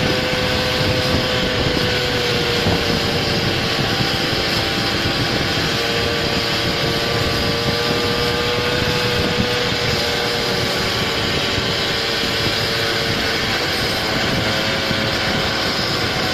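Small scooter engine running steadily while riding, its pitch drifting slightly up and down with the throttle, over a constant rushing noise.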